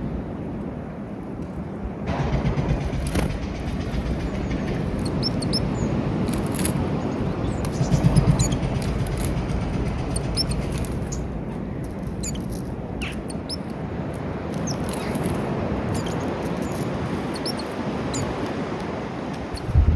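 Steady low outdoor rumble, with a louder swell about eight seconds in. A few short, high chirps from small birds at a feeder are scattered through it.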